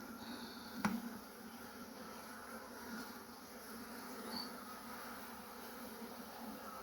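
Honeybees buzzing around an opened hive: a steady, even hum. A single sharp click sounds a little under a second in.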